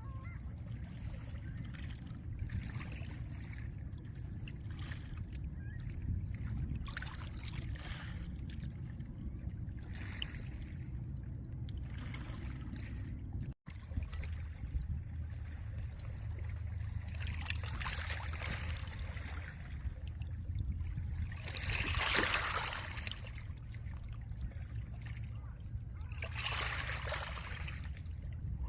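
Small lake waves washing gently onto a pebble shore. Each wave is a hiss that swells and fades every few seconds, over a steady low rumble of wind. The sound cuts out for an instant about halfway through.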